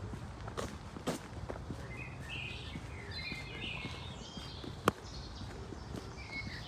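Small birds chirping over a steady low rumble of city background, with a few scattered knocks and one sharp crack about five seconds in.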